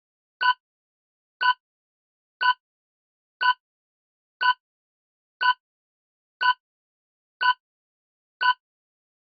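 Countdown timer sound effect ticking once a second, nine short, slightly pitched ticks in even rhythm.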